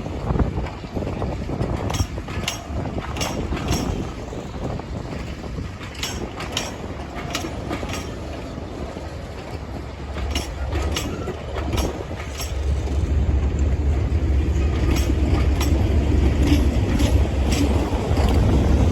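English Electric Class 37 diesel locomotive working hard, its V12 engine running with a deep drone that grows louder in the second half, over sharp wheel clicks from rail joints.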